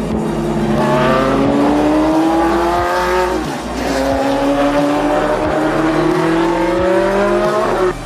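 Race car engine accelerating hard at full throttle, its pitch rising steadily, dropping sharply at an upshift about three and a half seconds in, then climbing again to a second shift near the end.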